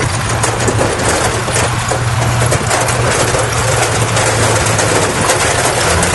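A bulldozer's diesel engine running with a steady low drone, with a dense clatter of small clicks and clanks over it.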